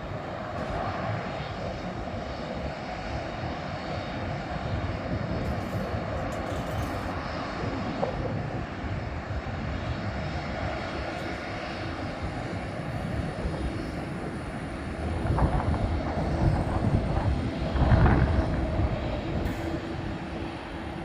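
Jet airliner's engines running, a steady rumble with a faint high whine, swelling into a louder low rumble near the end.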